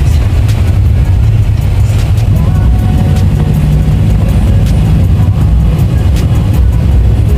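Vehicle travelling along a highway: a steady, loud low rumble of engine and road noise, with a faint engine hum in the middle.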